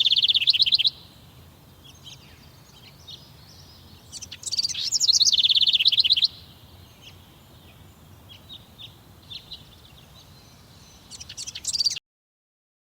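A songbird singing: phrases of about two seconds, each a fast series of high notes, repeated about every five seconds, with faint short calls between them. The sound cuts off abruptly near the end.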